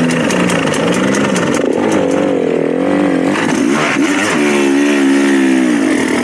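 Dirt bike engine being ridden on a trail, its revs rising and falling as the throttle is worked, held higher for a couple of seconds near the end.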